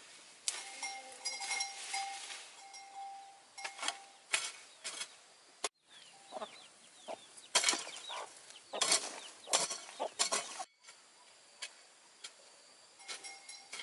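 Chickens clucking among scattered clicks and knocks. The sound cuts off abruptly twice.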